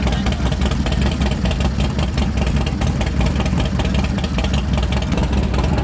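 Motorcycle engine running steadily with a deep low rumble and rapid firing pulses, without any rise or fall in revs.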